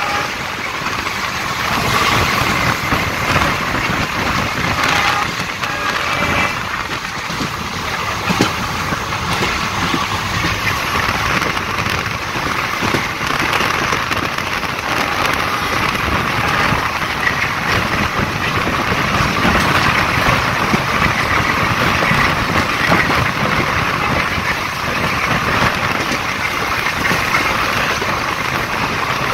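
Steady running noise of a passenger train at speed, heard close to an open coach door: the wheels running on the rails, mixed with the rush of wind past the coach side.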